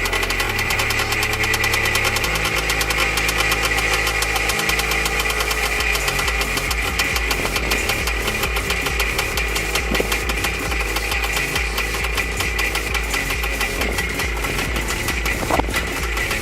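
Two-stroke single-cylinder engine of a Minsk motorcycle running steadily at idle, its firing pulses coming fast and even.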